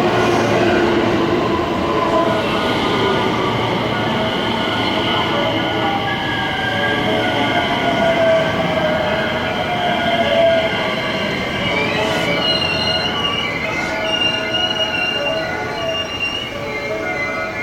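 Electric commuter train running into the station, its motor whine slowly falling in pitch as it slows, with high wheel or brake squeal over the second half.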